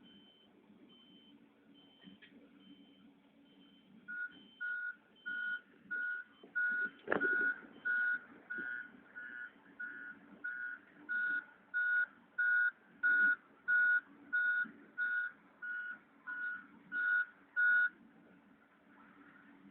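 Reverse alarm of a Caterpillar 140H motor grader beeping at an even pace, under the low hum of its running diesel engine. For the first few seconds only a fainter, higher beeping is heard. Then the loud beeps start, about two every second, and stop shortly before the end. A single sharp knock comes about seven seconds in.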